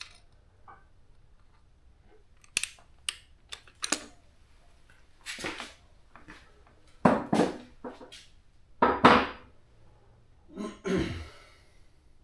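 Tools and metal parts being handled during an engine teardown: a few sharp clicks, then several louder clunks and scrapes.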